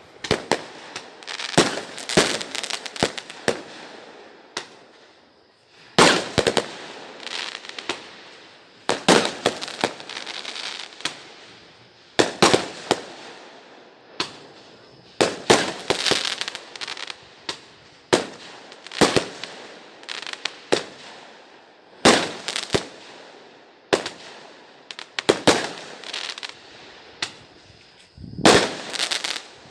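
Fireworks exploding: a cluster of sharp bangs about every three seconds, each trailing off into crackling.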